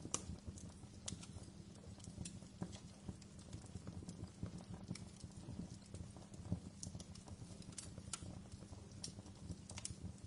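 Wood fire in a fireplace crackling: irregular sharp pops and snaps over a low, steady rumble of the flames. The loudest pops fall just after the start and a little past the middle.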